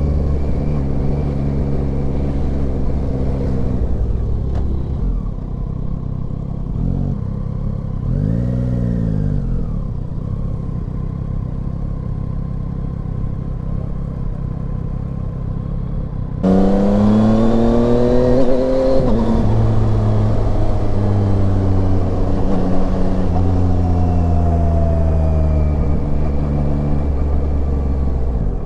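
Yamaha Tracer 9's inline-three engine under way, cruising steadily and easing off about four seconds in. About halfway through the throttle opens sharply and the revs climb for a few seconds. They drop at a gear change, and the engine cruises on louder.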